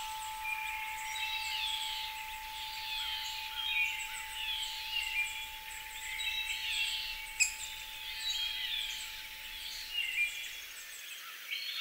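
Birdsong: a songbird repeating a short warbled phrase every second or two, over a faint steady tone that fades away. A single sharp click about seven seconds in.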